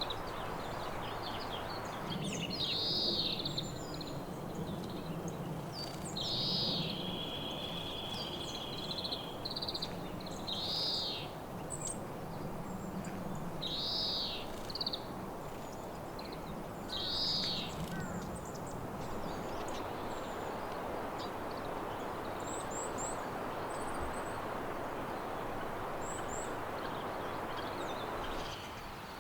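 Small wild songbird calling, a short call repeated every three to four seconds with one longer held note, over a steady background hiss.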